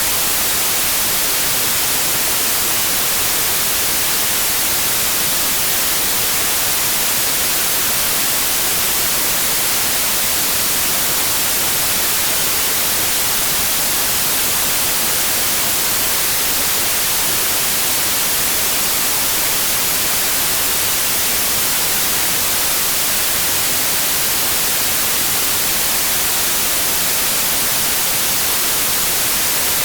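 Steady white noise: an even, unbroken hiss spread across the whole range, brightest in the treble, with no change in level.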